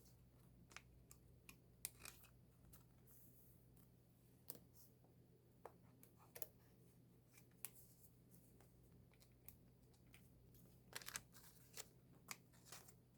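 Faint, scattered clicks and rustles of an album's paper and plastic contents being handled, with a small cluster near the end, over a low steady hum.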